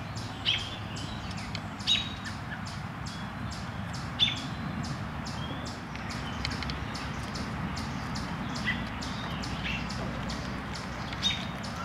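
Birds chirping in short, high calls every second or two, over a steady low rumble and faint quick clicking.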